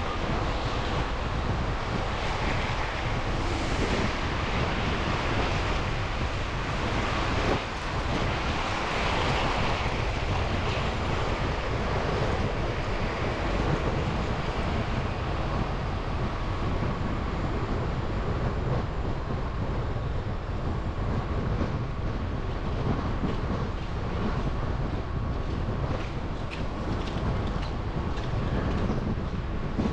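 Steady road noise of a car driving through city streets: tyre and traffic hiss with wind buffeting the microphone and a faint steady hum underneath.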